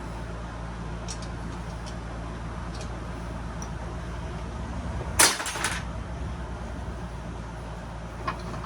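A single short, sharp metallic clatter about five seconds in as metal parts of a radial arm saw are worked loose by hand, with a few faint ticks before it. A steady low hum runs underneath.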